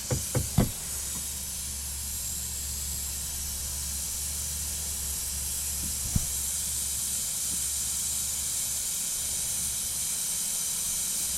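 Nitrogen hissing through the regulator and hose into a mini-split line set as it is pressurized toward 400 psi for a leak test, a steady hiss that slowly grows louder. A quick run of knocks comes at the very start, and a single knock about halfway through.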